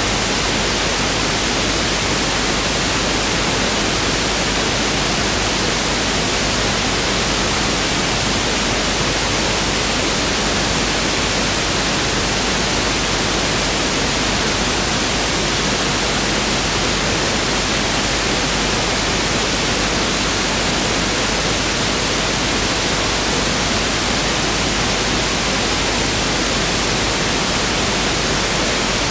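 Pink noise (1/f noise) test signal: a steady, even hiss spread across the whole audible range, with no change in level.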